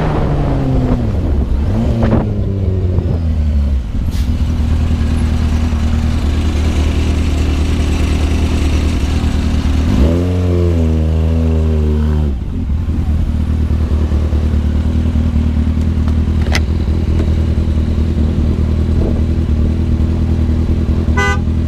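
Motorcycle engine slowing, its pitch falling over the first few seconds, then running steadily at low revs. About ten seconds in it revs up briefly for two seconds and drops back. There are a few sharp clicks.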